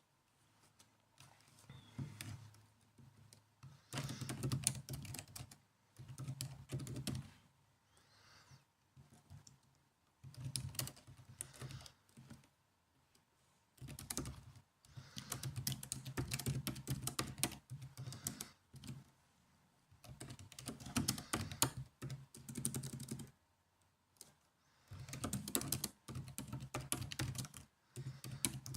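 Typing on a laptop keyboard: quick runs of key clicks, each lasting one to three seconds, with short pauses between them.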